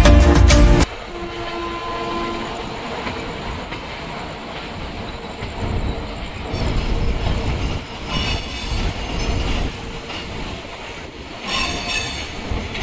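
Indian Railways passenger train rolling on the track: a steady rumble and clatter of wheels on the rails, with brief high metallic squeals of the wheels twice in the second half.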